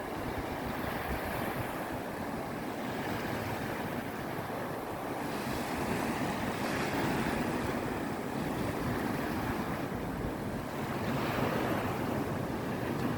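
Ocean surf breaking and washing up a beach, a steady rush that swells louder twice, with wind buffeting the microphone.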